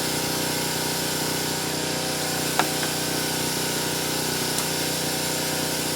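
A steady machine hum, with a single sharp click about two and a half seconds in.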